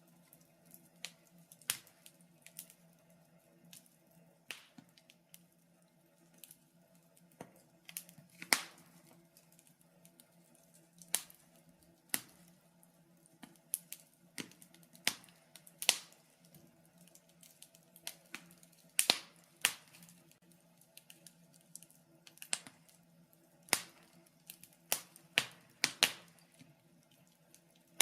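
Wood fire in a fireplace crackling, with irregular sharp pops, a few louder ones about eight, nineteen and twenty-six seconds in, over a faint steady low hum.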